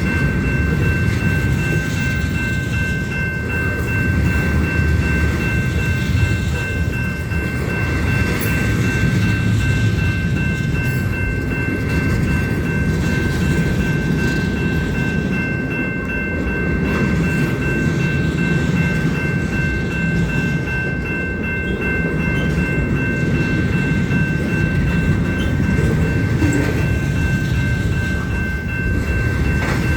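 Union Pacific freight train cars rolling past: a steady rumble of wheels on rail with faint clicking over the joints, and a steady high-pitched squeal held throughout.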